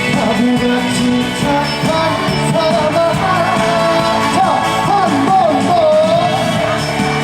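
Live trot band music: a lead melody line with a wobbling vibrato plays over steady bass and drums, an instrumental passage after the last sung line of the song.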